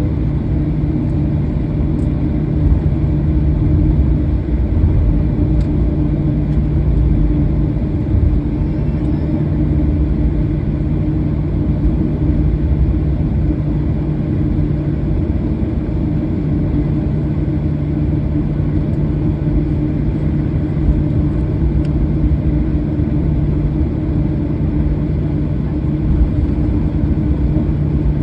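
Cabin noise of a Boeing 737-800: the steady hum and rumble of its CFM56-7B engines, with no spool-up or change in pitch.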